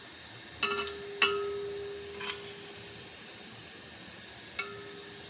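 A metal spoon knocks four times against a metal cooking pot while fried onions are scooped out of hot oil; the second knock is the loudest and the pot rings for nearly two seconds after it. Hot oil sizzles faintly underneath.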